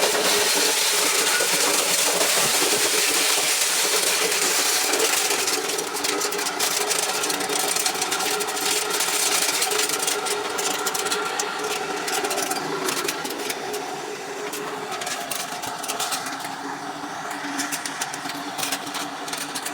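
An engine-driven corn-shelling machine running steadily, with a dense rattling clatter over the engine note. It gets somewhat quieter about six seconds in and again about fourteen seconds in.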